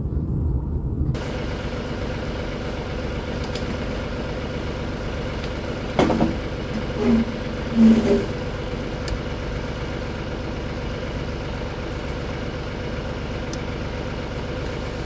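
A domestic cat purring steadily, a continuous low rumble with an even flutter, set off by being petted. A few short, louder sounds break in around six and eight seconds in.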